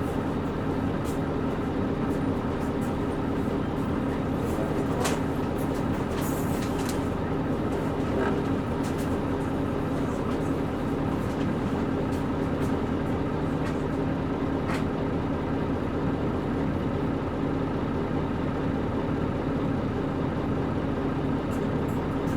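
Interior running sound of a Nissan Diesel KC-UA460LSN one-step bus with a PG6 engine, humming steadily as the bus drives along. A few short, sharp creaks from its leaf-spring suspension come through.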